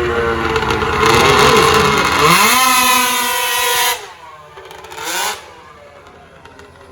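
Truck-pull vehicle's engine running, then revved hard about two seconds in and held high until it is cut back about four seconds in, with one short blip of revs about a second later.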